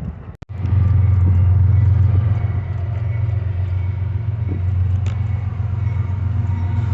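A loud, steady low engine rumble that starts abruptly after a brief break in the sound about half a second in.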